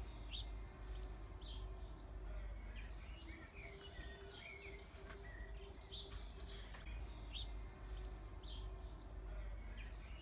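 Small birds chirping and singing in short calls, over a steady low background rumble.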